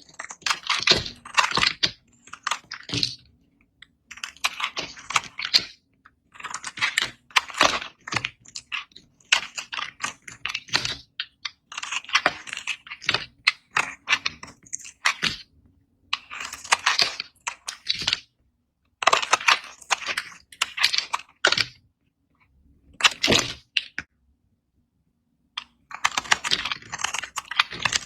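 Dry bar soap being cut, giving a dense crisp crackle and crunch as it is sliced, in runs of one to two seconds with short pauses between, about ten times over.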